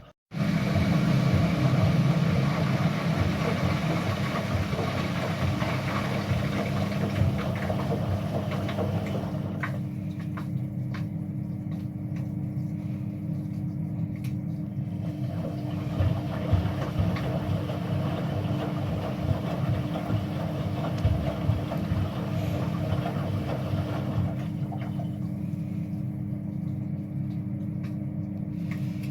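Indesit MTSWA 61053 W EE front-loading washing machine running through its Express 15' programme, a steady motor hum with two held tones that does not let up.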